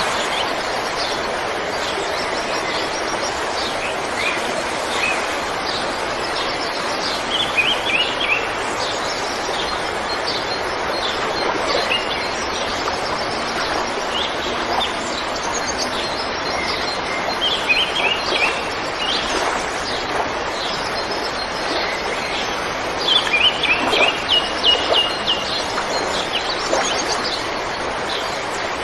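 River water rushing steadily, with small birds chirping over it in short runs of quick repeated notes, a few times, the longest run near the end.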